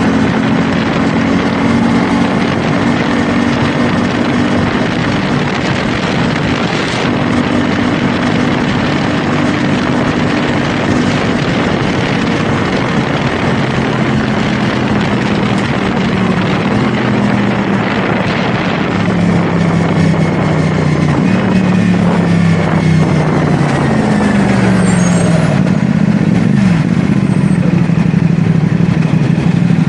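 CFMoto 450SR S parallel-twin engine running under way, with heavy wind rush over the microphone. The engine pitch steps down several times in the second half, dips sharply near the end and then rises again.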